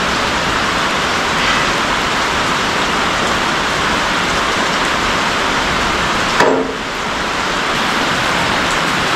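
Heavy rain falling steadily, with a single knock and a brief ring about six and a half seconds in.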